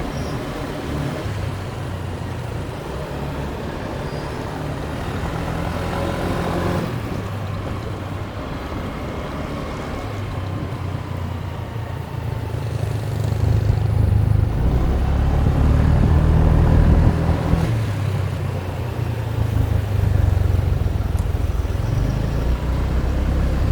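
Motorbike engine running under way, a low steady hum mixed with wind and road noise, getting louder about halfway through.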